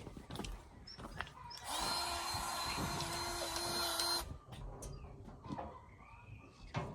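A small electric motor whirs steadily for about two and a half seconds, starting about two seconds in after a brief spin-up and cutting off suddenly.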